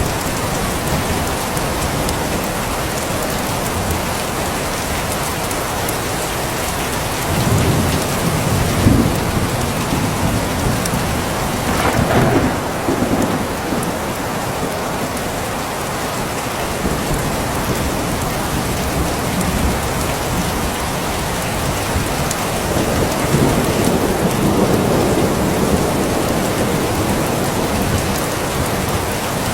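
Steady heavy rain falling, with rolls of thunder rumbling three times: about a quarter of the way in, near the middle, and toward the end.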